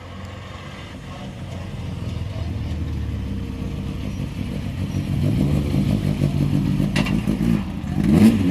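Rally car engine running and growing steadily louder, then revved up and down in quick blips near the end. A single sharp click sounds about seven seconds in.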